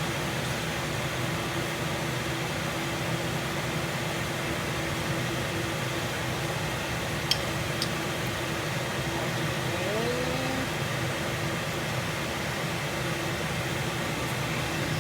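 Kitchen exhaust fan running with a steady whooshing hum, noisy enough to cover the cooking. Two sharp clicks come about seven seconds in.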